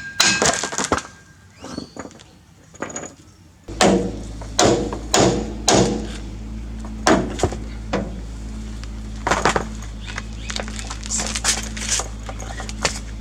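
Repeated metal knocks and clanks of hand tools working on a Hilux drivetrain to free the drive shafts, in irregular strikes. About four seconds in, a steady low hum joins the knocking.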